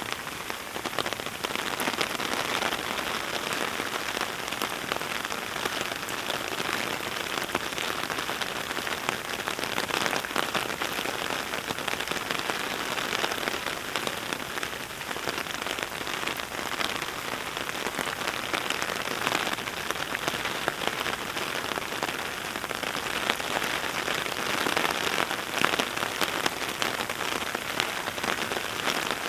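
Heavy rain falling steadily, a dense patter of many small drop ticks.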